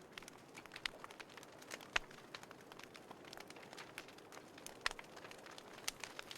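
Wood fire crackling in a small folding fire pit: irregular pops and snaps over a soft hiss, the sharpest pop about two seconds in and another near five seconds.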